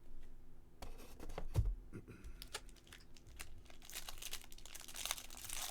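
Handling of trading cards and packs: a few light clicks and a dull thump, then from about four seconds in a stretch of crinkling and tearing, a foil card-pack wrapper being torn open.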